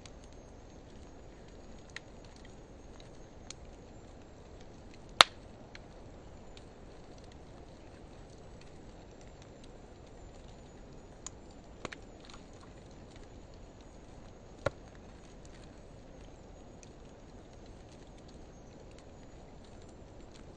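Driftwood and hardwood logs burning in a fire pit, with a steady low hiss and a handful of sharp, scattered crackling pops from the wood. The loudest pop comes about five seconds in.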